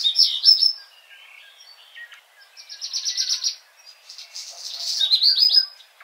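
Songbirds singing: three bursts of high chirps and quick trills, near the start, about halfway and near the end, with fainter chirps in between.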